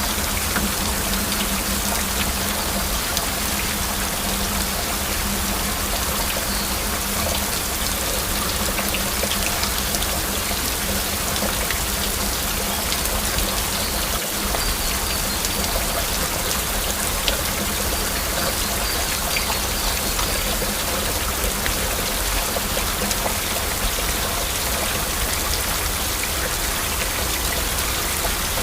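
Steady heavy rain, with many individual drops heard as sharp ticks.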